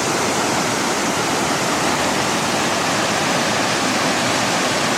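Water from a small river's falls cascading over mossy boulders close by: a steady, loud rush with no break.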